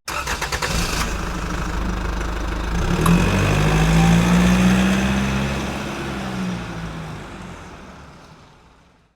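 Diesel engine of an articulated dump truck running, growing louder toward the middle and then fading away.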